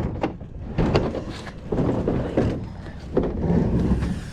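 Several separate knocks and clunks over a low, steady rumble.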